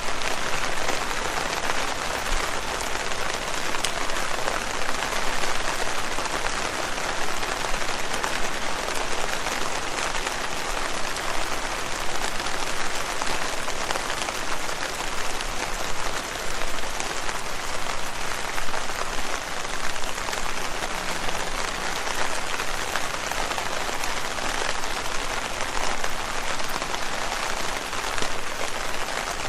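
Steady rain falling on leaves: a dense, even patter of drops with no let-up.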